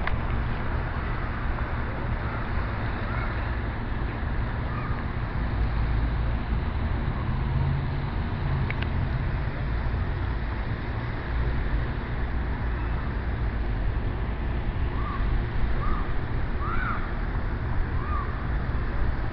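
Steady outdoor background of distant traffic rumble and wind. Near the end come four short, high chirps.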